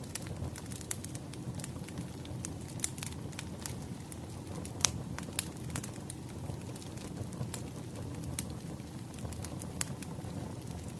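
Wood fire crackling: a steady low rumble of burning logs with irregular sharp pops and snaps, the loudest pop a little under five seconds in.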